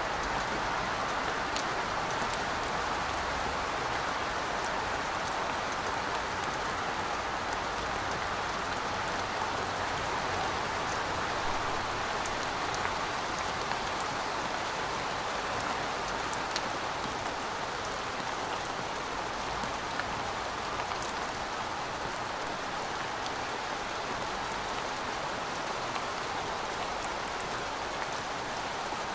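Steady rainfall: an even hiss of rain with scattered sharp ticks of single drops striking.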